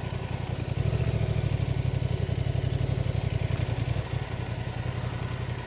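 Honda Transalp motorcycle engine running on the move, pulling harder for a few seconds from about a second in, then easing off.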